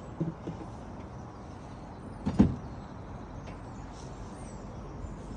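A few light knocks, then one louder knock about two and a half seconds in, over a steady low background rumble.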